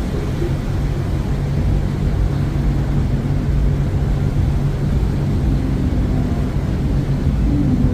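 Steady low rumble with a constant low hum, the sound of a cruise ship's engines and deck machinery mixed with wind on the microphone.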